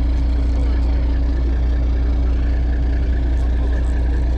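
Fishing boat's engine running steadily at low speed, a constant low drone heard from on board.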